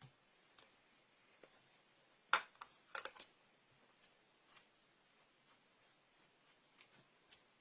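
Scattered light taps and clicks of stamping supplies and card being handled on a worktable, with the sharpest tap a little over two seconds in and a short cluster of clicks just after.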